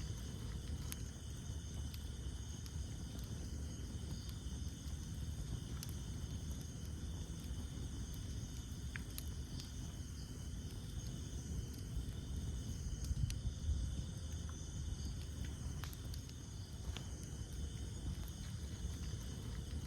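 Wood campfire burning, with scattered sharp crackles and pops over a low rumble, while insects trill steadily in the background.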